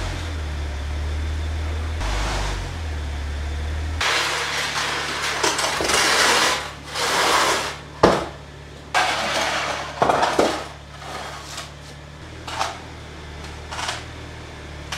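BMW Z4 sDrive35i's 3.0-litre twin-turbo N54 straight-six running with a low, steady hum as the car is driven up onto wooden ramps. About four seconds in a run of irregular scraping and knocking noises begins, with a sharp click about eight seconds in.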